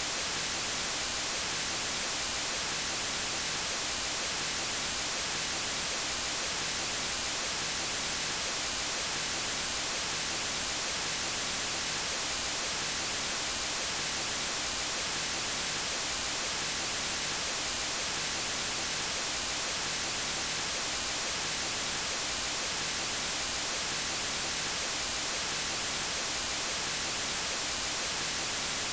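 Steady white noise, an even hiss strongest in the high frequencies, with no change in level.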